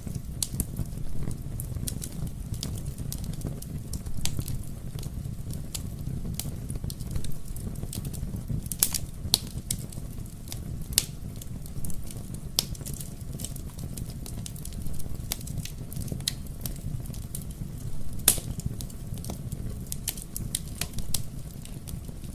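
Wood fire in a fireplace burning with a steady low rumble and frequent irregular crackles and pops, a few sharper pops standing out.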